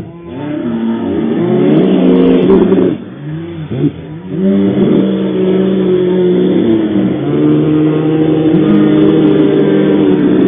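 Car engine revving up and down repeatedly, its pitch rising and falling in long sweeps, with brief drops back toward idle about three and four seconds in.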